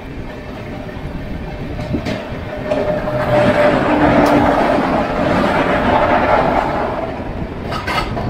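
Express train running fast past a train on the next track, heard from an open coach door: a steady rush of wheels and air that swells louder for a few seconds in the middle as an electric locomotive goes by alongside, with a few wheel clacks over rail joints near the start and the end.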